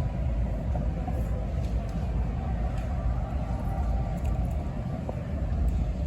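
Steady low rumbling background noise of an ice rink during play, with a few faint distant clicks and knocks.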